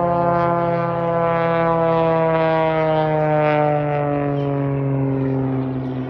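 An aircraft flying past, its engine drone a strong pitched note that slides steadily lower as it goes by.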